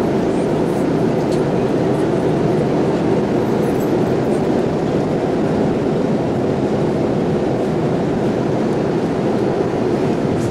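Steady rush of engine and airflow noise inside the cabin of a Boeing 787-8 Dreamliner airliner.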